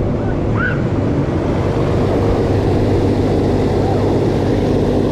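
Fairground ride running with a steady mechanical hum, and a short high gliding sound just under a second in.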